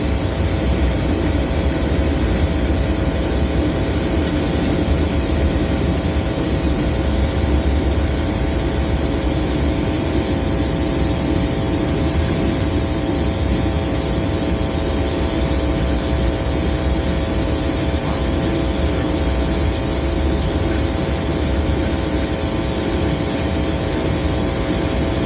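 Freight train cars rolling past, a steady heavy rumble of wheels on the rails with a continuous hum of several held tones above it.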